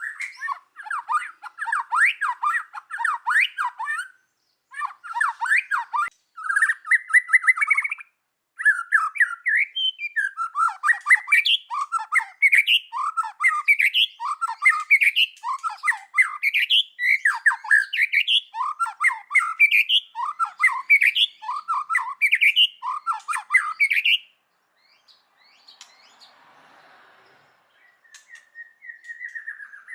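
White-rumped shama singing: a fast, varied chatter of notes, then a long run of repeated swooping phrases, more than one a second. The song breaks off about 24 s in, and one short whistle comes near the end.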